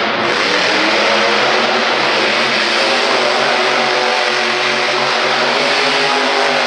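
Monster truck engine running hard at high revs, loud, its pitch rising and falling with the throttle.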